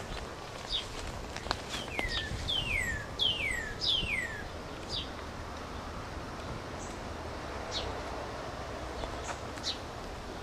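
A bird calling: about half a dozen short chirps that slide down in pitch in the first five seconds, then a couple more spaced out later.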